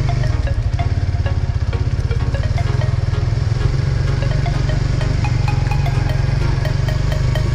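Motorcycle engine running with a steady low pulse while the bike rides at low speed. Background music with short, scattered notes plays over it.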